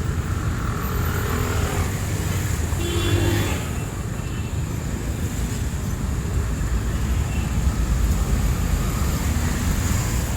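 Steady city street traffic noise, a low rumble of passing vehicles, with a brief pitched sound about three seconds in.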